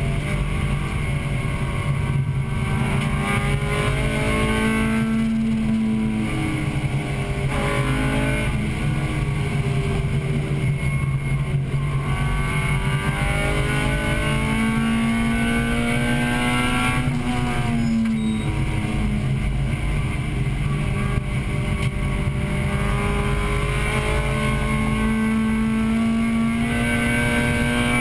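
1998 Acura Integra Type-R's 1.8-litre VTEC four-cylinder heard from inside the car while being driven on track. The revs rise in long pulls and drop sharply at shifts or lifts several times, most sharply about 17 seconds in.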